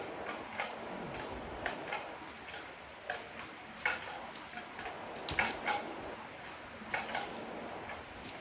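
Irregular short, sharp clicks and knocks, roughly one every second, with the loudest a little past five seconds in: hand-tool work on a fallen tree and its roots.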